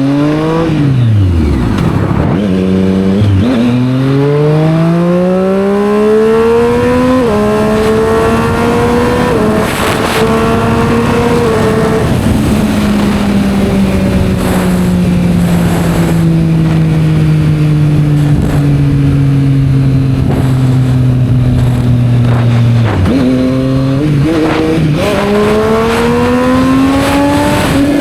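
Triumph Street Triple 765 R's inline three-cylinder engine through a Yoshimura exhaust, heard from the rider's seat. It pulls up through the gears, with upshifts about three and seven seconds in, then holds speed. It rolls off slowly for about ten seconds, then near the end it revs sharply with a few quick throttle blips and accelerates again.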